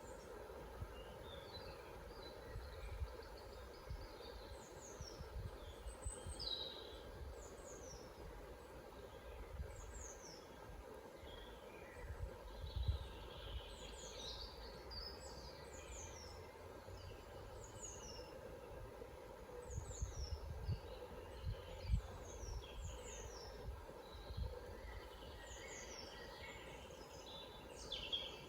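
Forest birds singing: many short, high, falling chirps repeated every second or two, with other calls in between. Low rumbles come and go in the background.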